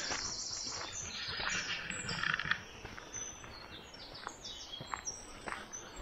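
Woodland birds singing and calling: a string of short high chirps and trills, some falling in little steps.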